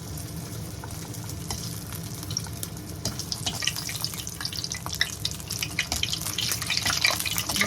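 Breadcrumb-coated bread balls deep-frying in hot oil, sizzling with a steady hiss and scattered crackles. The crackling grows busier and louder from about three seconds in.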